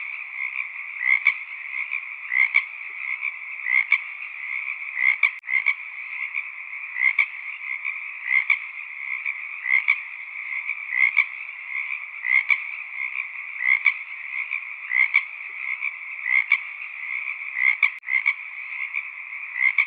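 A dense frog chorus calling steadily, with individual louder croaks standing out roughly once or twice a second over the continuous massed calling.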